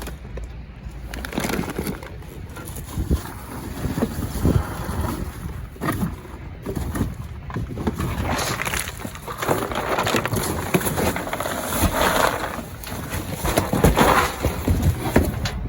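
Trash being rummaged through in a dumpster: bags and packages rustling, with scattered knocks and thumps, busier in the second half.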